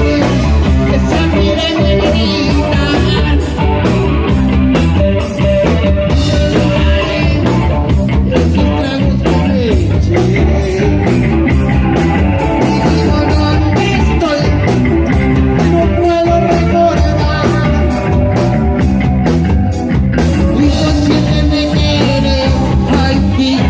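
Rock band playing live, loud and continuous: a drum kit with steady cymbal strokes and electric guitar, with a voice singing over it at times.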